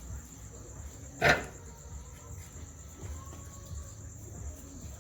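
Steady high-pitched insect chirring, typical of crickets, with one short, loud, sharp sound about a second in.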